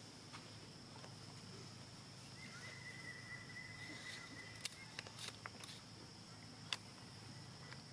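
Faint outdoor ambience with a steady, high-pitched insect drone, a thin steady whistle-like tone for a couple of seconds in the middle, and a few light clicks in the second half.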